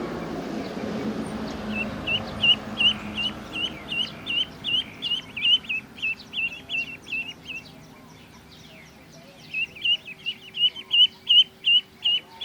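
Ducklings peeping: short, high, repeated calls about three a second, stopping for a couple of seconds near the middle and then starting again. A rushing noise fills the first few seconds.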